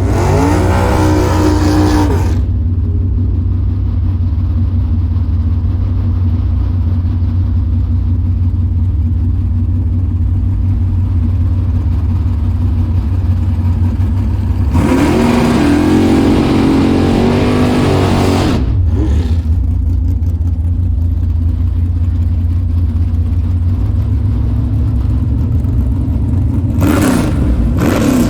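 A car engine running with a steady deep rumble, revving up three times with its pitch rising: briefly at the start, for about four seconds midway, and again near the end.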